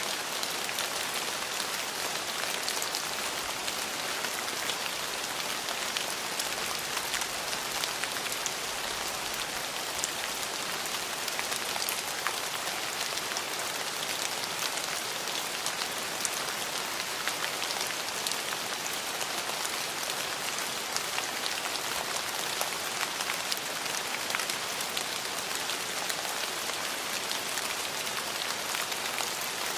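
Steady rain falling, a dense even hiss with many sharp individual drop ticks; no thunder.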